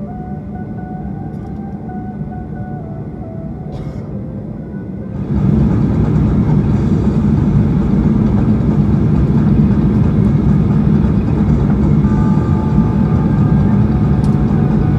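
Boeing 737-800 cabin noise heard from the rear cabin during taxi: a steady, low engine and airframe rumble. About five seconds in it steps up sharply and stays loud. Faint background music runs under it at first.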